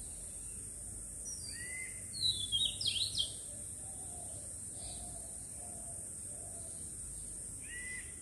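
Small birds chirping outdoors: a few single short calls, then a quick cluster of high chirps about two to three seconds in, and one more short call near the end, over a steady high hiss.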